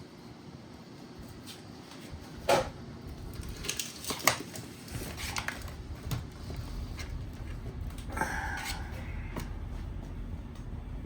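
Scattered knocks and clicks of a battery casing being handled and fitted back together, the loudest about two and a half seconds in, with a short scrape about eight seconds in.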